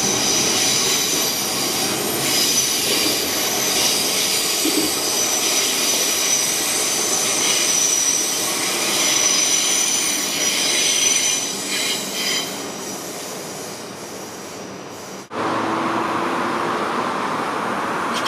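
Train running past with its wheels squealing in several steady high tones over the rumble of the rails, fading away over a few seconds. The sound cuts off abruptly about fifteen seconds in and is replaced by a duller, steady rumble.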